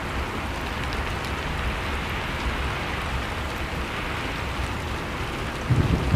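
Blizzard and fireplace ambience: steady rushing storm wind with faint scattered fire crackles. A louder, gusty low rumble comes in near the end.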